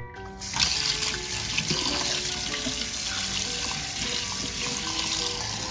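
Water running steadily from a tap into a kitchen sink, starting about half a second in.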